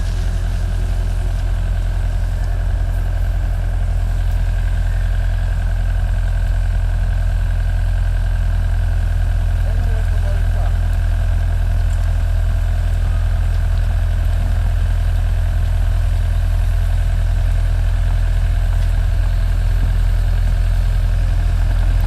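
Heavy machinery's diesel engine running steadily at idle: a constant low hum with a steady higher whine over it.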